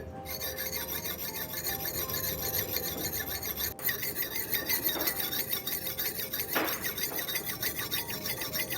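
Rapid, repeated rasping strokes of metal being abraded by hand, as when a rusty knife blade is filed, sanded or honed during restoration.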